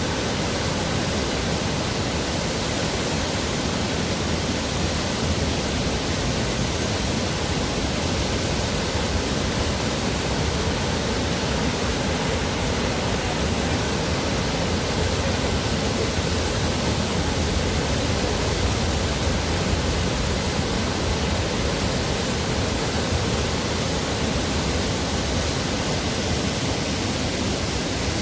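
Waterfall with a steady, full rush of falling water and no breaks.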